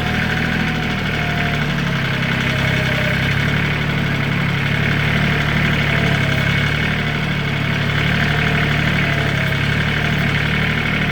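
Lenar 274-1 compact tractor engine running steadily at a raised idle while the loader hydraulics lift the front bucket.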